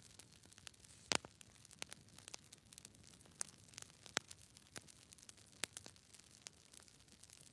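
Faint hiss with sparse, irregular sharp clicks and crackles, the loudest about a second in.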